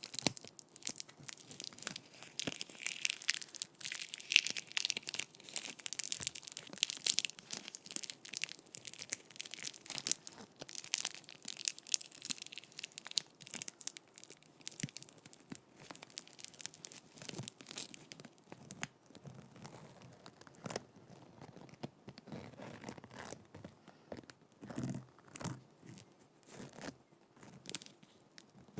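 Sticky tape rubbed, pressed and peeled directly on a microphone: dense, irregular crackling and tearing-like sticky pops, hissier and brighter in the first half, with duller rustles and thumps in the second half.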